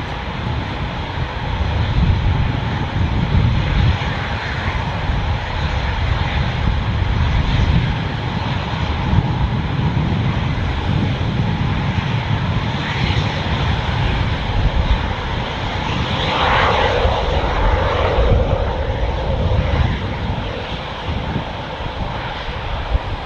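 Military fighter jet engines running loud, a deep steady rumble with a thin whine above it; about two thirds of the way through a tone sweeps down in pitch.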